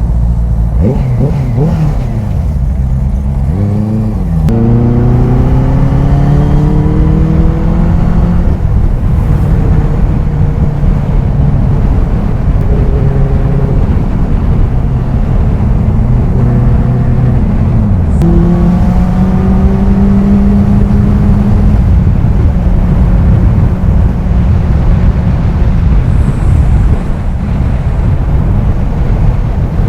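Benelli 600i motorcycle's inline-four engine under way, the note rising as it accelerates about four seconds in and again about eighteen seconds in, with brief drops between, over a steady rush of wind and road noise.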